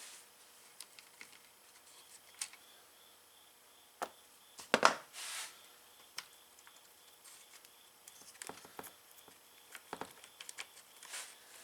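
Tools and small parts being handled at a workbench: scattered clicks and light knocks, with a louder clatter and a brief rustle about five seconds in.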